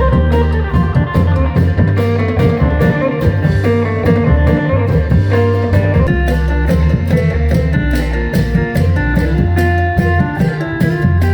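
Isan phin music: a plucked lute playing a quick melody over heavy bass and a steady drum beat.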